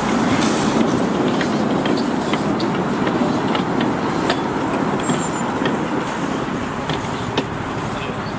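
Train running along the track: a steady rumble with scattered sharp clicks from the wheels and rails.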